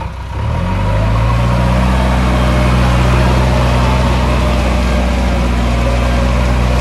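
Diesel engine picking up speed about half a second in, then running steadily at a higher, even speed.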